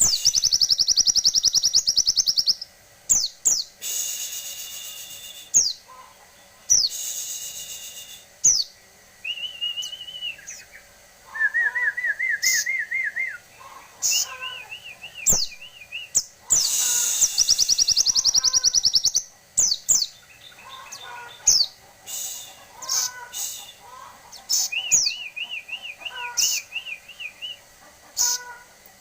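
Ruby-cheeked sunbird (sogon) in full song, with loud rapid high trills, harsh buzzy bursts, and wavering whistled trills lower down. Sharp down-slurred notes run between the phrases.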